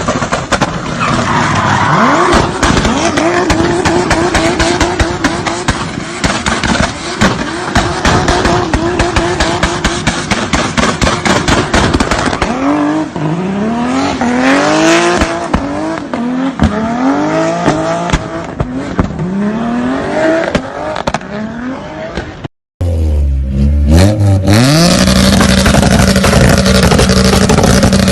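Honda cars driven hard, engines revving in repeated rising sweeps with tyre squeal. The sound cuts out suddenly about 23 seconds in, and another car's engine revving follows.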